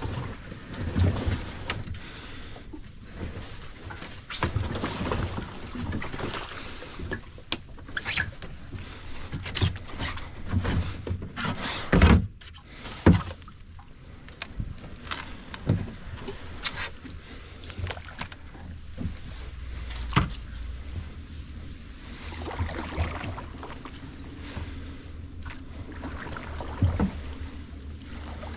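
Kayak being paddled: irregular splashes and dips of the paddle in the water, with a few sharp knocks, the loudest about twelve and thirteen seconds in.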